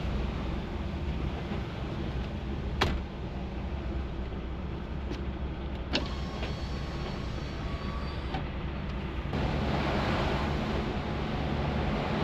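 DAF truck's diesel engine running with a steady low hum, heard with a hiss of road or rain noise that grows louder about nine seconds in. Two sharp clicks come through, about three and six seconds in.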